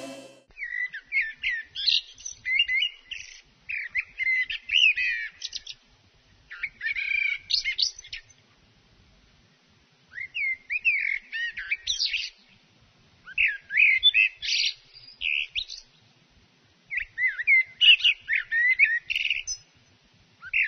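A songbird singing in repeated warbling phrases of about two seconds each, with short pauses between them.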